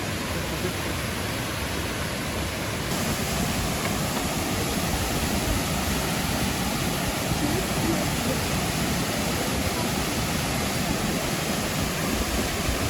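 Steady rush of falling water from the Triberg waterfall's cascades, an even hiss that grows a little brighter and louder about three seconds in.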